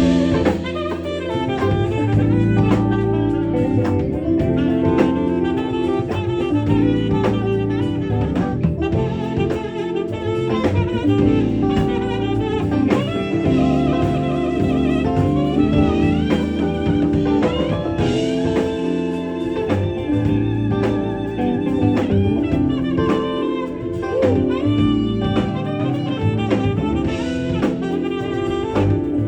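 Live smooth-jazz band playing: a saxophone carries the melody over drum kit and bass.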